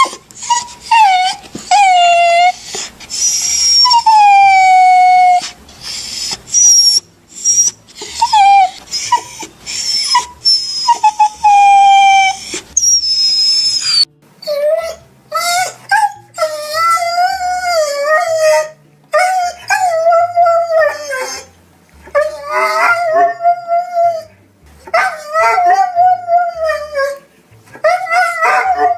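Dog whining and crying. High whimpers slide down in pitch in the first half, then give way about halfway through to longer, wavering howl-like cries repeated every second or two.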